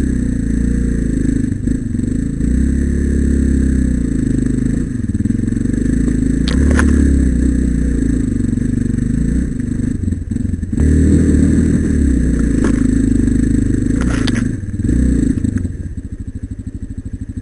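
Single-cylinder dual-sport motorcycle engine running under changing throttle, rising and falling, with a couple of sharp knocks or scrapes. Near the end it drops to a steady, evenly pulsing idle.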